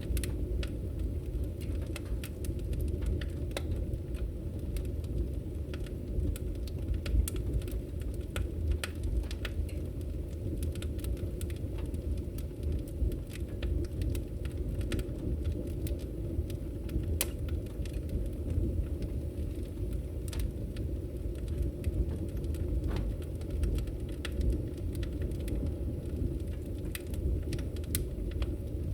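Wood fire burning in a fireplace: a steady low rumble with scattered crackles and pops throughout.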